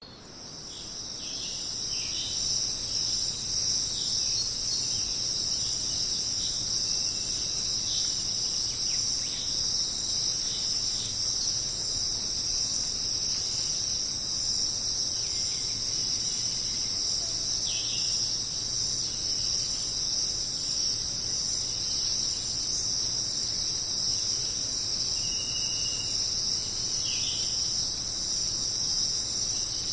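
A dense insect chorus, a steady high shrill buzz that fades in over the first couple of seconds. A few short, falling bird calls sound over it now and then.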